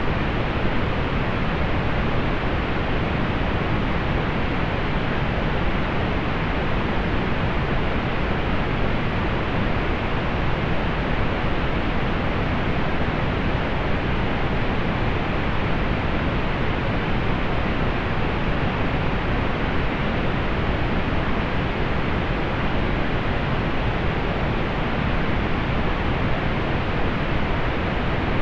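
Steady, unvarying pink noise: an even hiss, fuller in the lows and softer in the highs, without any change or event.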